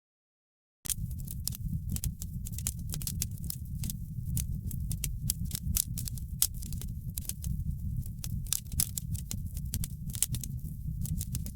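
Wood fire crackling in a fireplace: many sharp, irregular pops and snaps over a low steady rumble. The sound drops out completely for about the first second, then comes back.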